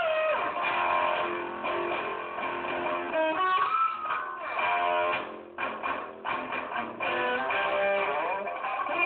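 A guitar playing an improvised melody, with many notes bent or slid up and down in pitch between single notes and strummed passages.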